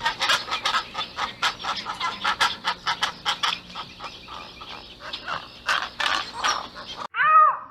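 Pelicans calling: a dense, rapid run of short, harsh calls, several a second, which stops about seven seconds in.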